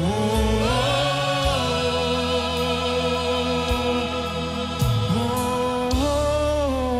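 A gospel choir and congregation sing a slow worship song, holding long notes and sliding up to new pitches, over steady instrumental accompaniment.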